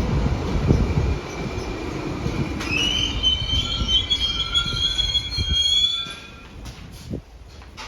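New York City subway train rumbling along the platform, then a high, wavering squeal from about two and a half seconds in as it slows, dying away near the end as it comes to a stop.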